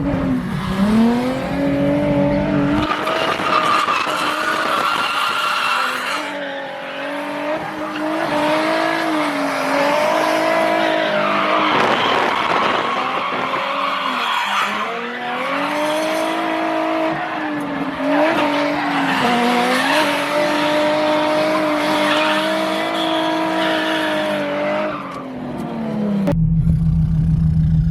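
Drift car's engine held at high revs, the pitch rising and falling as it goes through a drift run, with tyres squealing. Near the end it drops to a low, steady drone.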